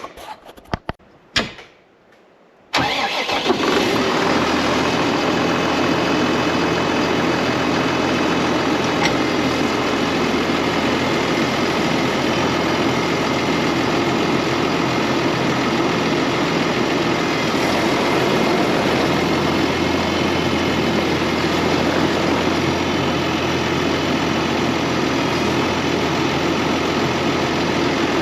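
A few light handling knocks, then about three seconds in a tractor engine comes in suddenly and runs steadily at a constant speed.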